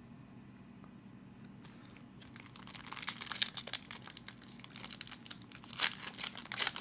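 Hockey card pack wrapper being torn open and crinkled by hand: quiet at first, then a dense run of quick crackles from about two seconds in, with one louder crackle near the end.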